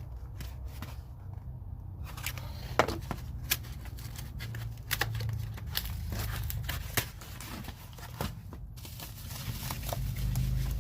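Packaging being opened and handled: crinkling and tearing with scattered sharp clicks and taps, starting about two seconds in.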